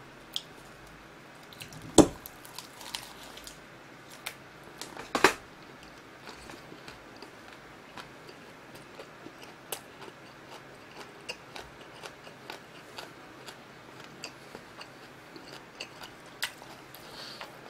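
Close-miked chewing of a lettuce wrap with raw garlic and chili pepper: two loud crunchy bites about 2 and 5 seconds in, then steady soft chewing with small wet clicks.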